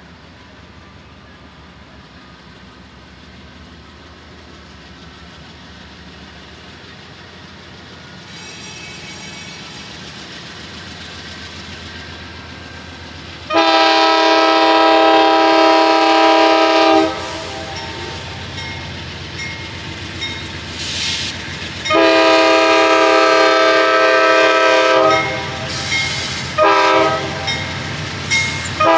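A Norfolk Southern train approaching, its rumble growing steadily louder. Then the diesel locomotive's air horn sounds a chord of several tones in the grade-crossing pattern: two long blasts, a short one, and a final long blast starting.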